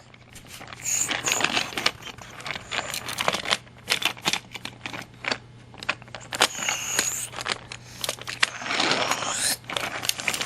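Toy trains and toys being handled and knocked together: an irregular run of small clicks, clacks and rattles.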